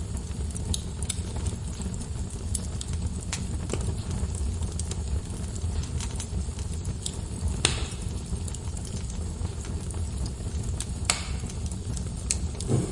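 Wood logs burning in a fireplace: a steady low rumble with scattered sharp crackles and pops, two louder snaps about eight and eleven seconds in.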